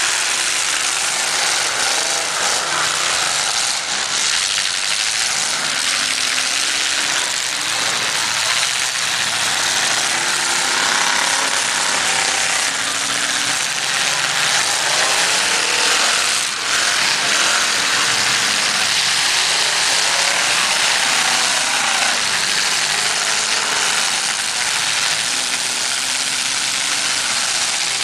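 Several demolition derby cars' engines revving hard at once, loud and continuous, with pitch rising and falling as the drivers push and ram each other in the mud.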